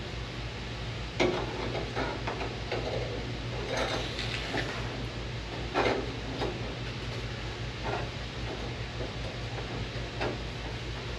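Sheet metal being handled and worked: scattered light metallic knocks and clanks, some ringing briefly, over a steady low hum.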